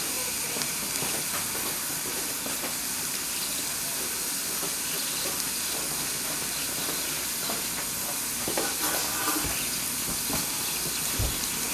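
Water running from a tap into a sink, a steady splashing hiss, over the hiss of small live-steam engines.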